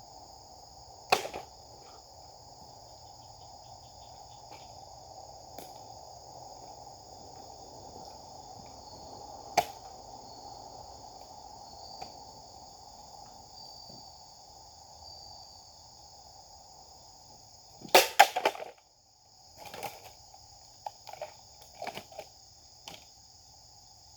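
Sharp strikes of a Japanese sword cutting: one about a second in, another near the middle, and a quick cluster of loud strikes near the end, followed by several lighter clicks. Insects drone steadily in the background throughout.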